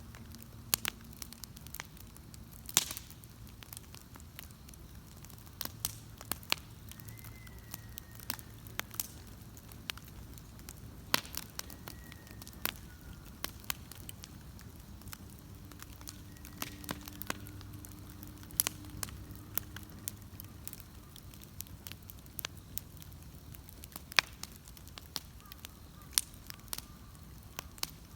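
Wood bonfire burning with irregular crackling and sharp pops, a few of them loud, over a faint steady low rush of the flames.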